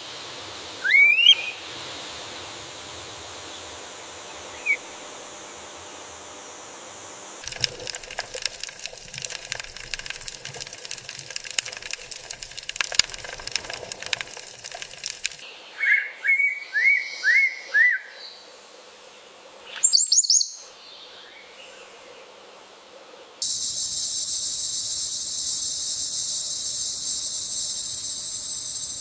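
Wild birds calling in short chirps and rising whistled notes, including a quick run of about five rising notes. About three quarters of the way through, a steady high insect trill begins suddenly and carries on to the end.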